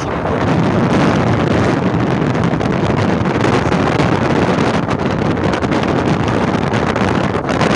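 Steady rush of wind buffeting the microphone, with the running noise of a moving vehicle under it.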